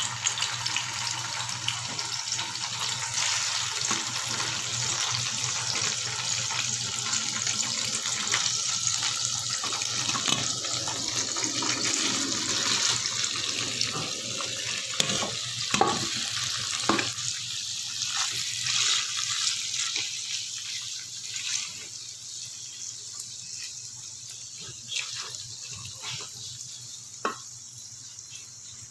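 Paneer cubes sizzling and spattering in hot oil in a frying pan: a dense, steady hiss that thins out over the last third, with a few sharp clicks and pops.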